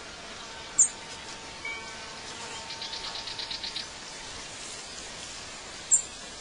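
Birds calling over a steady background hiss: two short, sharp high chirps about five seconds apart, and a fast rattling trill of about nine notes a second in the middle.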